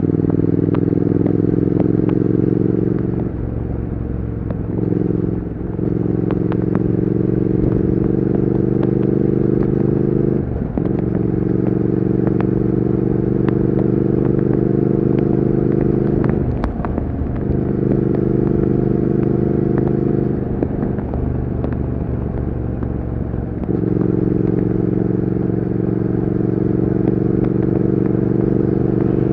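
Triumph Speed Twin 1200's parallel-twin engine and exhaust running at steady revs under way. Several times the steady note drops and wavers before picking up again. Light clicks and ticks are scattered throughout.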